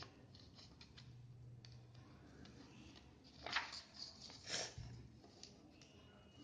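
Scissors cutting a sheet of A4 paper: faint snips and paper rustling, with two louder cuts about three and a half and four and a half seconds in.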